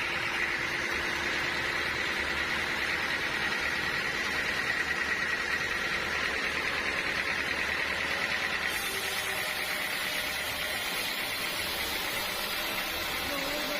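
Sawmill machinery running steadily, a constant mechanical hum with a faint high whine. About two-thirds of the way in, a higher hiss joins it.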